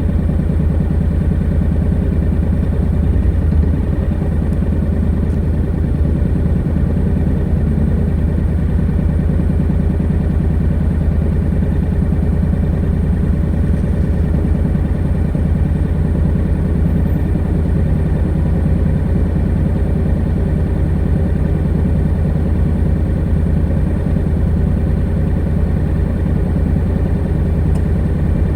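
Honda NC700X's 670 cc parallel-twin engine running steadily through its stock exhaust, holding an even, unchanging engine speed.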